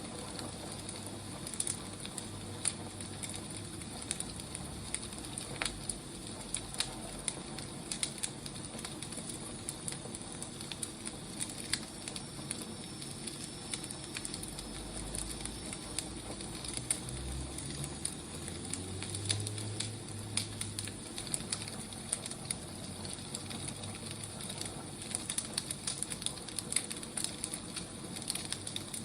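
Wood fire crackling and hissing: a steady hiss with frequent small, irregular pops and snaps from the burning logs.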